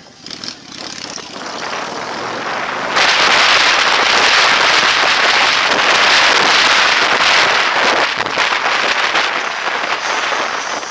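Wind rushing and buffeting over the microphone of a motorcycle riding at speed. It builds over the first few seconds and is loudest from about three seconds in, covering the engine.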